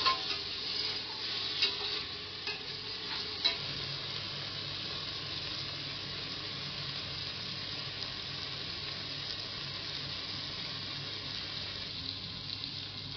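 Chopped shallots and tomatoes sizzling in oil in a stainless-steel pressure cooker as they fry down soft. A steel slotted spoon clicks and scrapes against the pot a few times in the first few seconds, then the sizzle goes on steadily.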